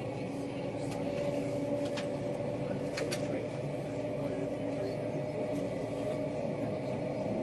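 Steady running rumble of a vehicle in motion, with a few sharp clicks about two and three seconds in.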